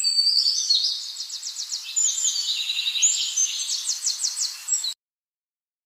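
A songbird singing high-pitched whistled notes and fast trills. The song cuts off suddenly near the end.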